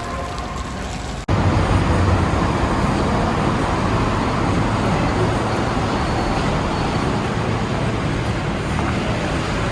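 Steady street traffic noise: a continuous rush and low hum of vehicles. An abrupt cut about a second in, after which it is louder.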